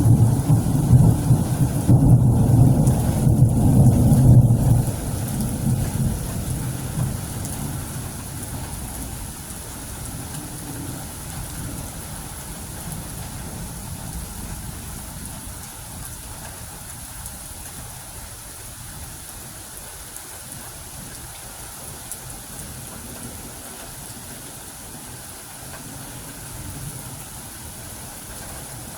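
Thunderstorm: a deep rumble of thunder for the first few seconds that slowly dies away, leaving steady rain.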